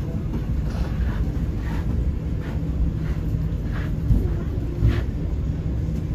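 Steady low rumble inside a passenger train carriage, with a couple of short low knocks about four and five seconds in.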